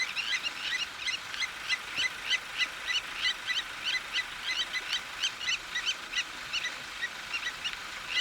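Blacksmith lapwings giving their sharp, metallic 'tink' alarm calls, several a second without a break, in defence of their nest.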